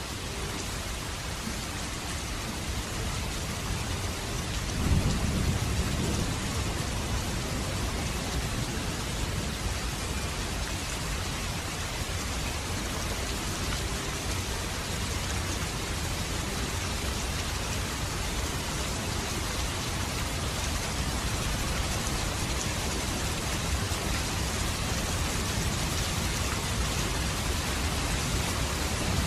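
Steady rain falling, with a low rumble of thunder about five seconds in; the rain is a little louder after it.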